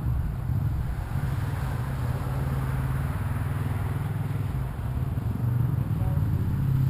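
Sport motorcycle engine idling steadily with a low, even note.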